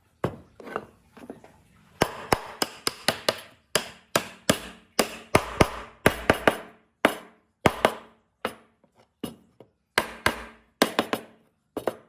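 Hammering in a woodworking shop: a long run of sharp, separate hammer blows at an uneven pace, mostly about two a second, with a quicker flurry about two seconds in and brief pauses between groups.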